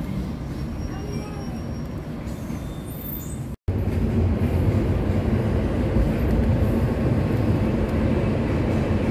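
Electric suburban train running, a steady rumble. About three and a half seconds in, the sound cuts off abruptly and returns louder, now with a steady low hum.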